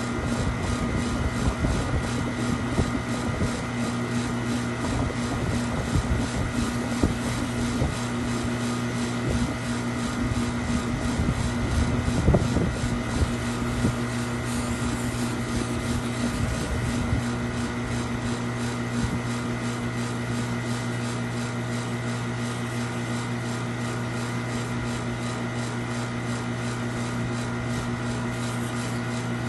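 A steady mechanical hum with a constant low drone and higher steady tones, and some uneven low rumbling in the first half.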